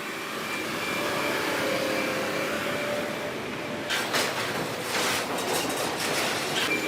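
Sawmill lumber sorting machinery and chain conveyor running steadily with a faint whine, and a cluster of sharp knocks about four seconds in, with another near the end.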